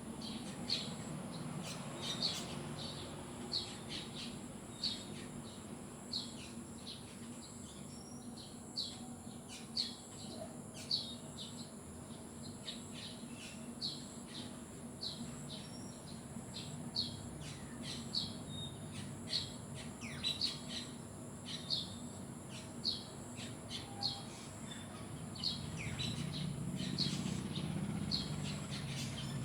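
Birds chirping: short, high chirps repeating about once or twice a second over a steady low background hum that grows louder near the end.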